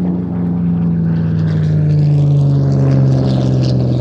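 Supermarine Spitfire LF IX's Rolls-Royce Merlin V12 engine droning as the fighter flies past. Its pitch falls slowly and steadily as it goes by, getting a little louder toward the end.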